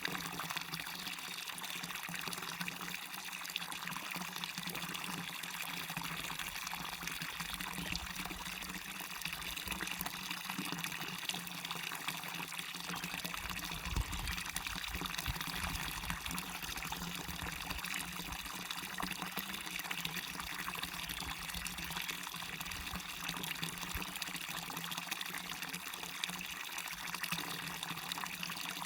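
Waterfall water rushing and splashing steadily into a stream, an even, continuous hiss with a faint low rumble.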